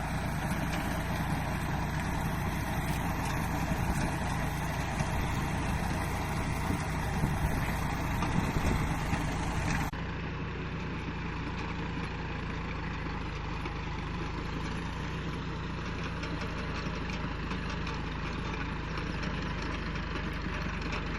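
Tractor engine running steadily under load, as when powering a baler. About ten seconds in the sound cuts abruptly to a slightly quieter, duller run of the same engine noise.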